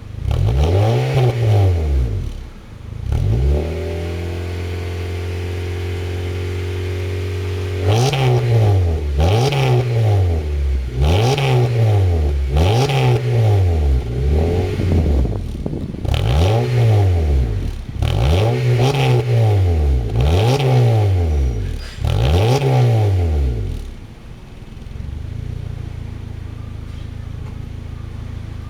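Honda Odyssey RB3's 2.4-litre four-cylinder engine breathing through a V-VISION straight-through centre muffler, revved repeatedly while standing. There are two short blips, a few seconds of steady raised idle, then a run of about nine quick revs, each rising and falling in pitch. It settles to a quieter idle near the end.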